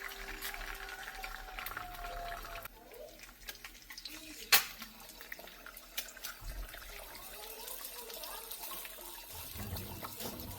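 Water running from a tap, stopping about two and a half seconds in. Then come scattered kitchen clicks and knocks, one of them sharp and loud near the middle.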